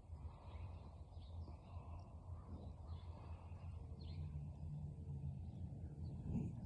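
Faint funny noises from a pet animal after it rolls, a low pitched sound around the middle, over a steady low hum with faint bird calls in the background.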